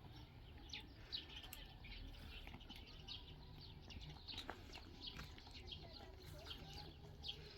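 Faint bird chirping: many short, high chirps that sweep downward, coming irregularly throughout, over a low steady background rumble.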